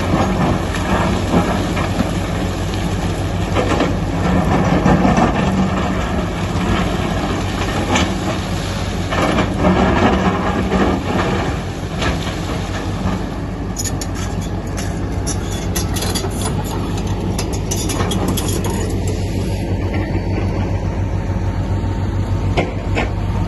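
Diesel engine of a heavy excavator running steadily under load during earthmoving, with irregular metallic clanks and knocks from the machine working, and a spell of sharp clattering in the middle.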